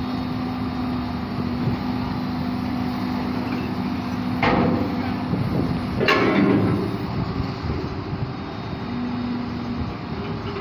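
Loaded train running with a steady rumble and faint hum, broken by two loud metallic clanks, about a second and a half apart.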